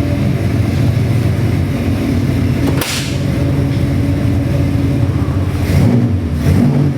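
Small-block Chevy 383 stroker V8 crate engine with a hydraulic roller cam and Holley carburettor running on an engine dyno, its engine speed dipping and rising again near the end.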